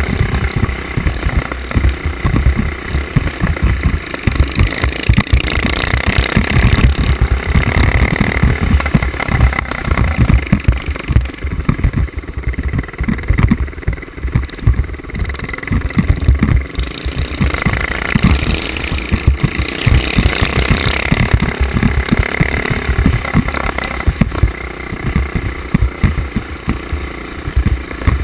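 Small single-cylinder mini bike engines running off-road, revving up and easing off twice, with heavy low buffeting on the helmet-mounted microphone.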